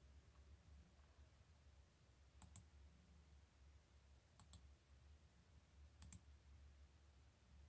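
Faint computer mouse clicks: three quick double clicks about two seconds apart, over a low steady hum of room tone.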